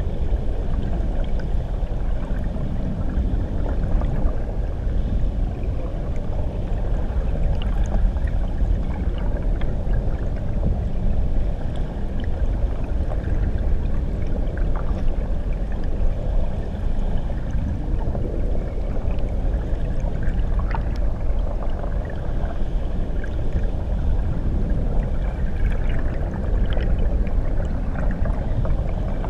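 Underwater recording beneath a waterfall: a steady, muffled low wash of churning water, with faint scattered ticks of bubbles higher up.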